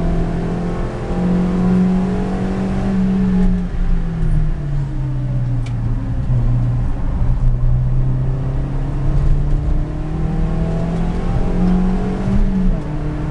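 Stage 2 Suzuki Swift's engine heard from inside the cabin at speed. The engine note climbs, then falls to a low steady drone through a corner, and climbs again before a quick drop near the end, as at a gear change.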